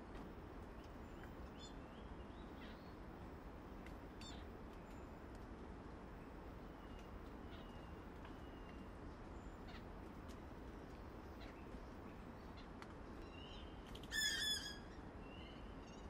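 Quiet forest background with scattered short bird chirps and thin whistles, and about fourteen seconds in one louder bird call of several quick falling notes.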